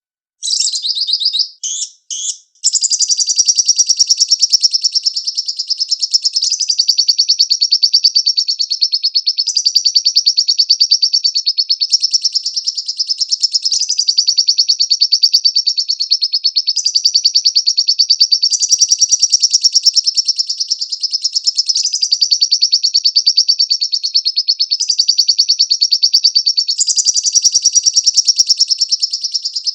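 Lovebird song: a loud, rapid, high-pitched chattering trill. It starts about half a second in, breaks off briefly twice in the first couple of seconds, then runs on without a pause.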